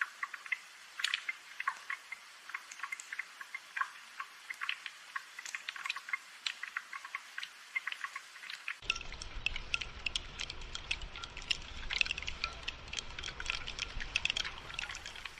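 Rain falling, heard as a dense patter of close, irregular drips. About halfway through, a low rumble comes in underneath.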